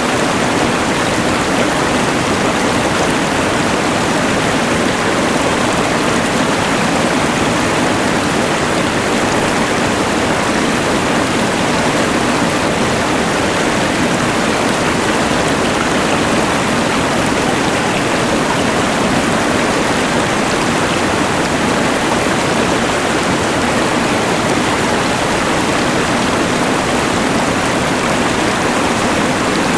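Rushing mountain river combined with a LectroFan white noise machine: a steady, even rush of water and hiss that does not change.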